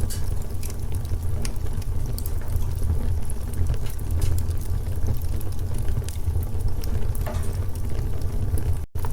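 Wood fire in a fireplace crackling, with scattered sharp pops and snaps over a steady low rumble. The sound cuts out for an instant near the end.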